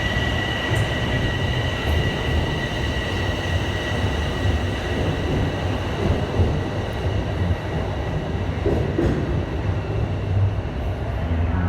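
Subway train noise: a low rumble with a steady high whine that fades out about halfway through.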